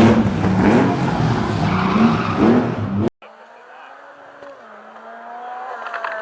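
Historic rally car's engine worked hard close by, its pitch rising and falling through the revs, with tyres squealing on the road. About three seconds in it cuts off abruptly, and a second, more distant car engine is heard, growing louder as it approaches.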